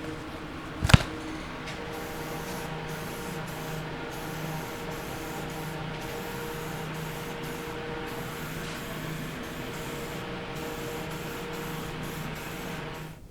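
A single sharp knock, then a steady spraying hiss over a low motor hum, with brief breaks in the hiss; it cuts off sharply at the end. This is most likely a motor-driven paint sprayer being used on the restored rack's hardware.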